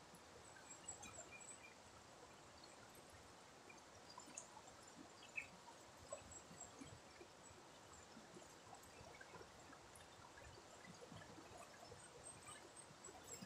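Faint, even rush of flowing river water, with scattered small ticks and one sharper click about halfway through.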